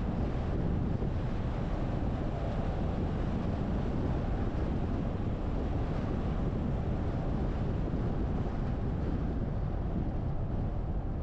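Steady wind rush and road noise of a car driving, heaviest in the low end, with no distinct events.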